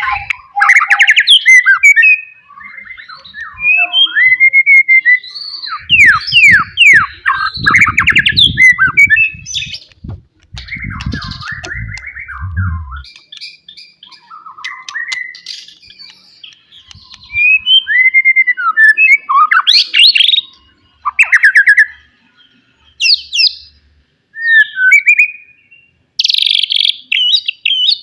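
White-rumped shama singing loudly: a varied song of clear whistles, quick sweeping notes and rapid chattering trills, delivered in short phrases with brief pauses between them.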